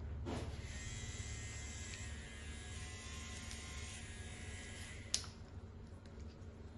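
Electric hair clippers running steadily for about four seconds, then stopping with a click.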